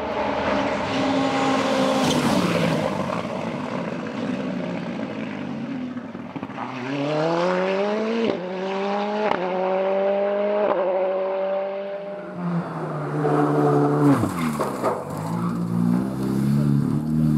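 Race car engine at full throttle, accelerating through the gears: the note climbs in pitch in each gear with three quick upshifts about 8, 9.5 and 11 seconds in. Afterwards the engine note drops as the car comes off the throttle and then picks up again near the end.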